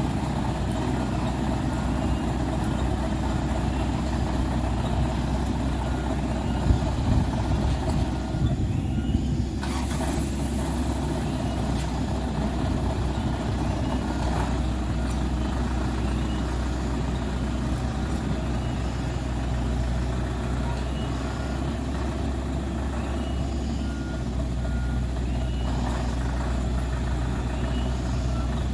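Heavy dump truck's diesel engine running steadily, with its reversing alarm beeping. A short hiss of released air comes about ten seconds in.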